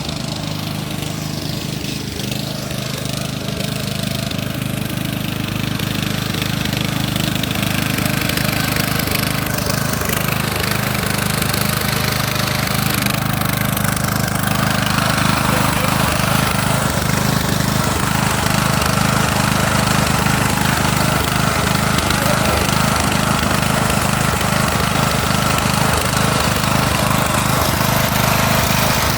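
Riding lawnmower engine running steadily at speed under load in a high gear, getting slowly louder, with a high steady whine coming in about halfway through.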